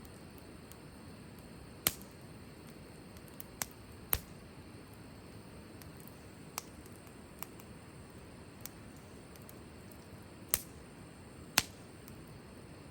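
Wood fire crackling: sharp, irregular pops a second or more apart, the loudest about two and four seconds in and twice near the end, over a low steady hiss.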